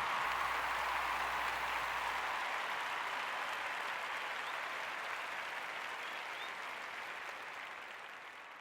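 Applause from a crowd, fading slowly out.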